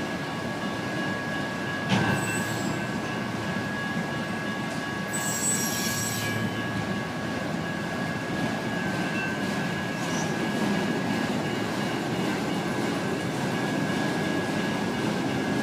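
Freight train cars rolling past on the rails with a steady rumble, a sharp clank about two seconds in and a brief high wheel squeal about five seconds in. The grade crossing's electronic bells sound steadily over it.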